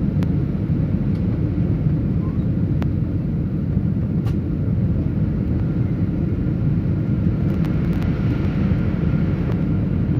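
Airliner cabin noise during the landing approach: a steady, deep rumble of engines and rushing air heard from inside the passenger cabin.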